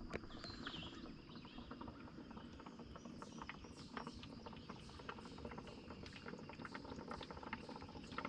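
Quiet lakeside ambience: faint water lapping with light, irregular ticks and patters, a faint steady high tone, and a short high chirp near the start.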